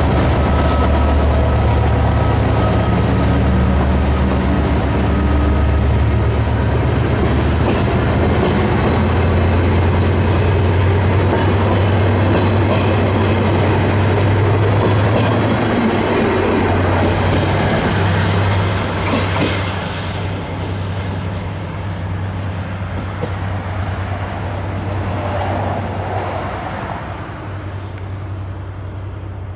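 EMD GT22 diesel-electric locomotive pulling a local passenger train past at close range, its engine making a deep steady drone as the coaches roll by, with a thin high whine above. The sound fades from about two-thirds of the way through as the train moves off.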